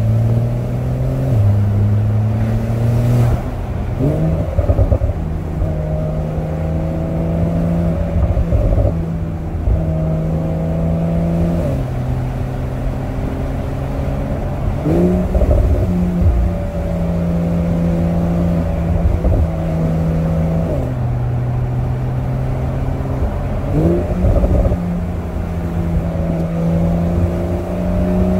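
Porsche 911 (992) Cabriolet's twin-turbo flat-six engine running under way with the top down. Its note holds steady for several seconds at a time and then jumps up or drops back in pitch, as with gear changes. Road and wind noise run underneath.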